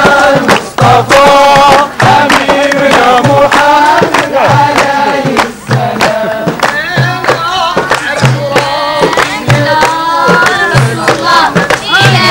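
A group of voices singing together in chorus over a steady beat of percussion strokes.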